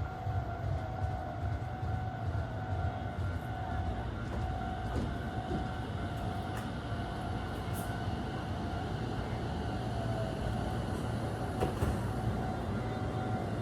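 Tobu Tojo Line electric train, with a steady low rumble and a high, steady whine.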